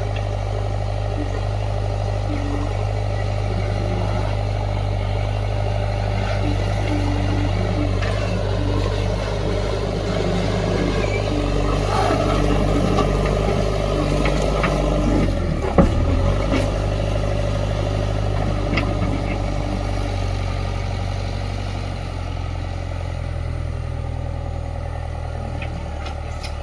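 Heavy diesel machinery running steadily at work, with one sharp, loud clank a little past halfway.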